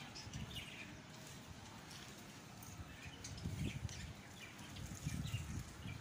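Faint, scattered chirps of small birds in the open air, with some low rumbling noise on the microphone about halfway through and again near the end.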